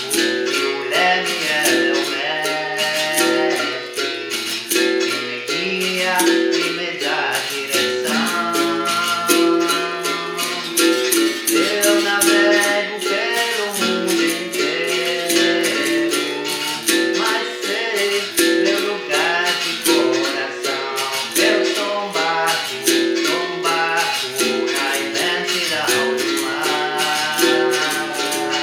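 Capoeira bateria music: berimbau playing a steady rhythm among other percussion, with a voice singing a capoeira song in stretches.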